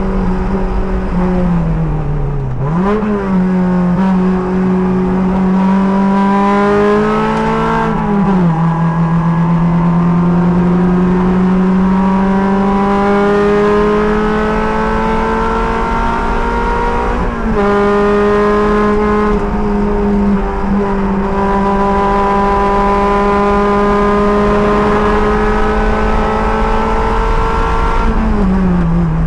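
Sports car engine under hard load on a race lap, heard from the driver's seat. The revs climb slowly and steadily, then drop sharply several times as the driver lifts, brakes or shifts for corners, about three, eight, seventeen and twenty-eight seconds in.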